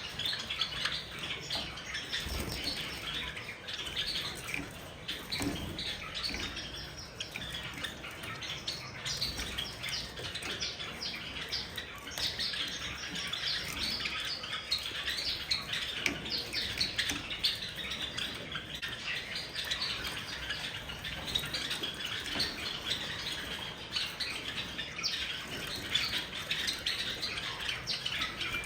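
A flock of Java sparrows chirping constantly in short, high, overlapping notes, with wings fluttering and splashing as they bathe in water.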